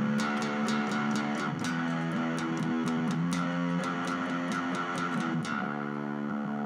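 Electric guitar played through a circuit-bent BOSS DS-1 distortion pedal: held notes that step between pitches, with a fast stutter of clicks over them that stops about five and a half seconds in.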